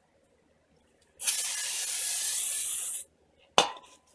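Aerosol brake cleaner sprayed in one steady hiss lasting about two seconds, then a single sharp knock.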